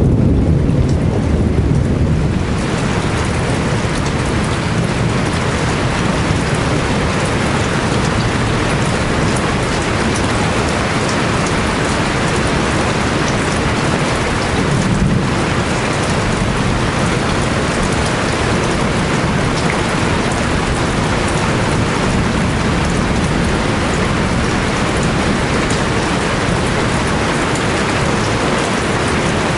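Steady heavy rain, a dense even hiss that fills in after about two seconds of mostly low rumble. A brief low rumble comes about halfway through.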